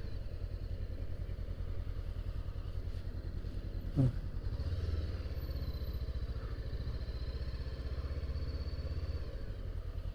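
Honda CBR500R's parallel-twin engine running at low revs while the bike rolls slowly. A brief sharp sound about four seconds in is the loudest moment.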